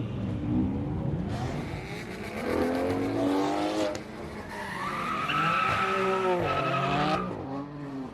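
Performance car engine revving hard with tyres squealing, the squeal holding a steady high tone for a couple of seconds in the second half.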